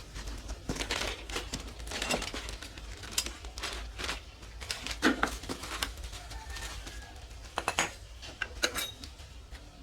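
Irregular metal clinks and knocks, as of tools and parts being handled, over a low steady hum.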